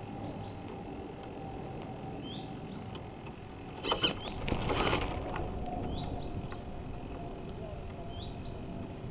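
Water rushing and splashing along the hull of a remote-control model sailboat, heard from its onboard camera, with a louder surge of splashing about four seconds in. Short high chirps recur every second or two over it.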